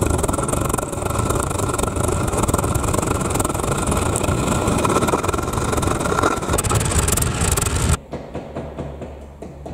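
Homemade metal-casting furnace running: a loud, steady rushing noise that cuts off abruptly about eight seconds in, giving way to quieter music.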